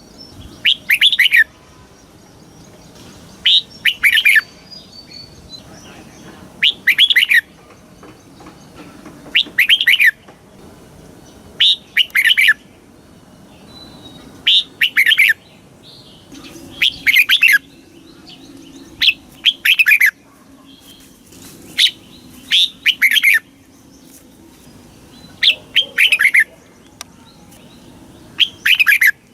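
Red-whiskered bulbul singing its short, loud phrases: quick clusters of two or three falling notes, repeated about every two and a half seconds, the kind of song played to train young birds or to excite caged birds.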